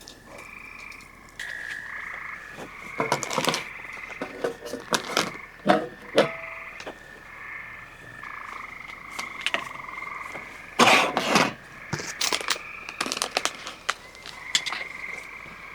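A steady outdoor night chorus of calling animals, several steady pitches sounding together. It is broken by scattered clicks and knocks, the loudest a short clatter about eleven seconds in.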